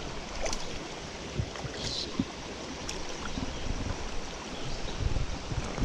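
Mountain stream running steadily, with a few short low bumps near the end.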